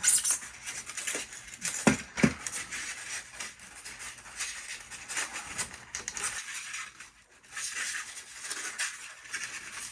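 Rubbing and scraping of a tight foam packing insert, with irregular small plastic clicks and knocks, as an HO-scale model cattle car is worked out of it by hand; two sharper knocks about two seconds in.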